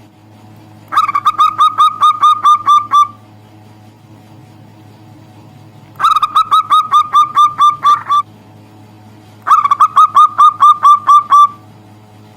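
Zebra dove (perkutut) calling in three bursts of rapid staccato coos, each burst about two seconds of eight to ten quick notes.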